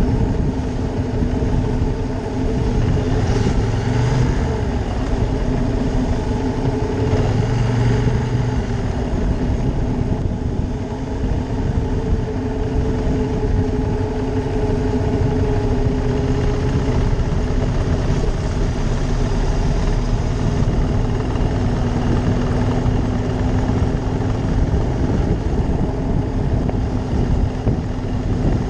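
Ducati Monster 620's air-cooled L-twin engine running steadily while under way, its pitch holding nearly constant.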